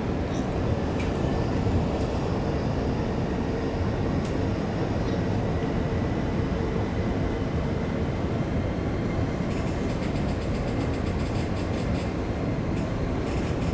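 Electric commuter train running along the line, heard from inside the car: a steady rumble of wheels on rail with a few sharp clicks. A high whine comes in about ten seconds in.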